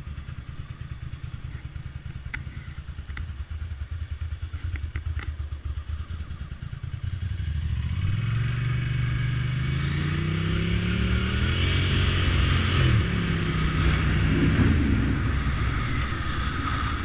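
Motorcycle engine running at a low, pulsing idle, then accelerating about halfway through, its pitch climbing twice as the revs rise.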